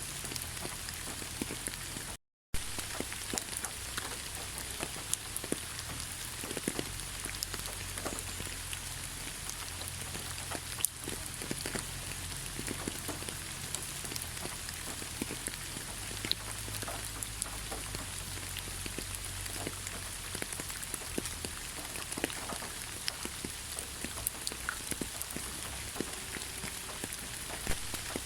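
Steady rain, with many separate drop hits clicking on a surface over a low background rumble. The sound cuts out completely for a fraction of a second about two seconds in.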